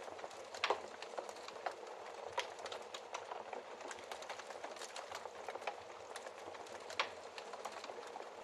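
Wood fire burning in a fireplace: a steady soft hiss with constant small crackles and a few louder pops, the strongest about a second in and near the end.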